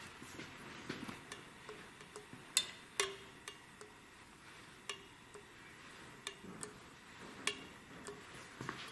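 Light, scattered metallic clicks and taps, about eight over nine seconds, from tools and engine parts being handled on a workbench.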